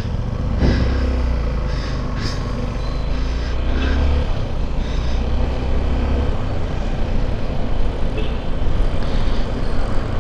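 Motorcycle engine running while riding along a road, a steady low rumble.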